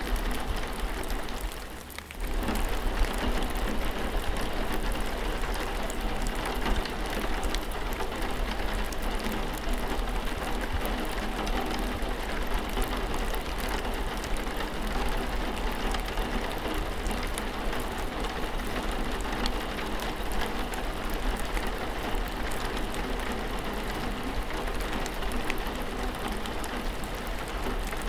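Steady rain falling, an even patter of many small drops, dipping briefly about two seconds in.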